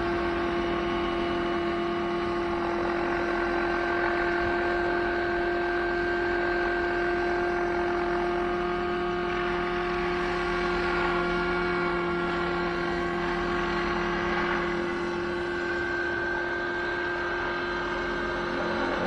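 OS 91 two-stroke glow engine of a Neo-CALIBER 90 RC helicopter running steadily in a hover, with the main rotor spinning, in throttle-curve mode without the governor; the engine note dips and recovers slightly a few times.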